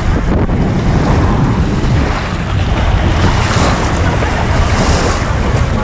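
Strong wind buffeting the microphone over the rush of the sea: a loud, steady noise with no pauses, heaviest in the low rumble.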